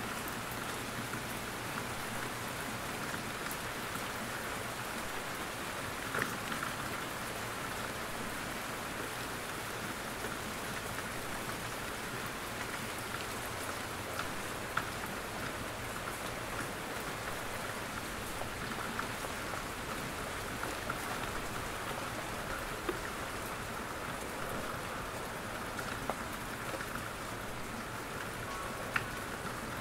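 Steady rain falling in a forest, with drops pattering off the trees and now and then a single louder drop ticking out, a few times.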